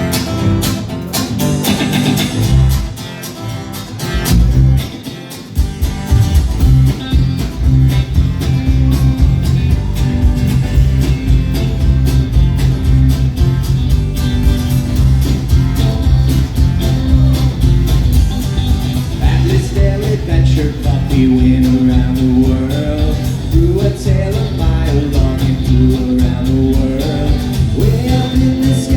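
Band playing live: guitar over a steady beat with strong low bass notes, after a brief drop about five seconds in. A singing voice comes in about two-thirds of the way through.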